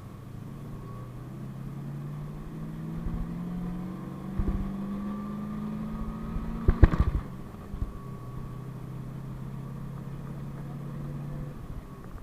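PAZ-32054 bus engine pulling under load, its pitch rising steadily over the first half as the bus accelerates, then running steadier at a lower pitch. A burst of loud knocks and rattles about seven seconds in.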